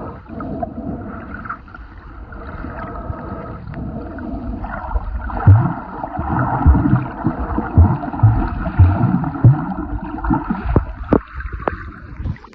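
Muffled sloshing and gurgling of seawater heard through an underwater camera, with a run of low thumps in the second half.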